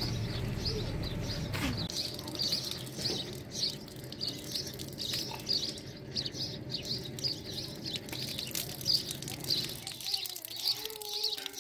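Small birds chirping repeatedly, several short high chirps a second, over a low steady background noise that fades out about ten seconds in.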